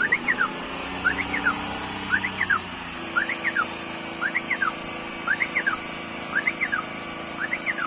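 Car's electronic reversing alarm chirping, a quick rising-and-falling double chirp repeating about once a second, with a low steady hum underneath.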